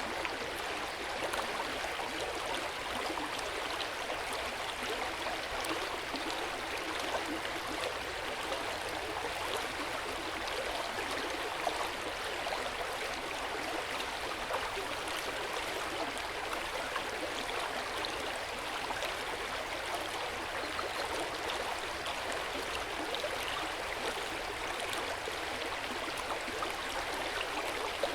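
A stream running steadily over rocks, a continuous babbling and splashing of water.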